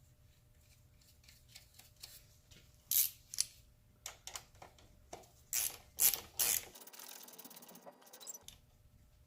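Metal tools clinking and knocking against the engine, then a socket ratchet clicking rapidly for about a second and a half as the A/C compressor's mounting bolts are tightened.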